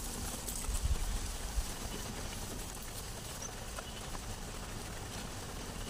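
Light drizzle falling steadily, with faint clicks and rustling from leaves and food being handled by hand and a few low thumps about a second in.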